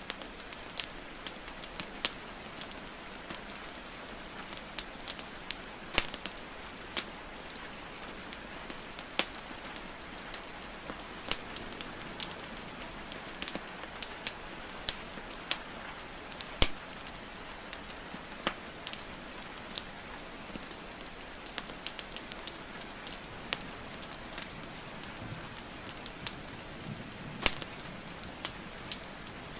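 Wood fire crackling and popping with many sharp, irregular snaps over a steady hiss of rain.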